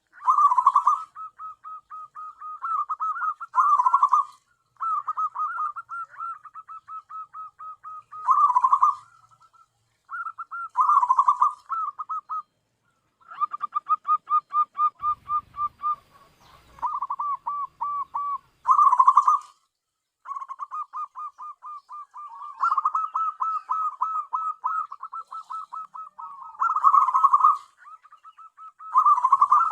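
Zebra dove (perkutut) cooing: phrase after phrase of rapid rolling notes, each a few seconds long, swelling into louder accented notes and broken by short pauses.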